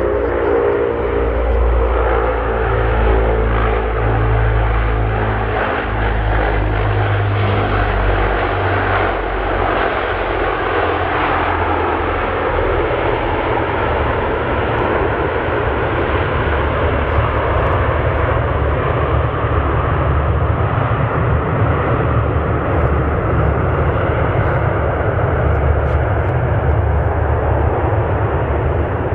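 Aircraft engine noise from a plane passing close by: a cluster of whining tones slowly drops in pitch and fades over the first several seconds, leaving a steady, loud rumble and rushing noise.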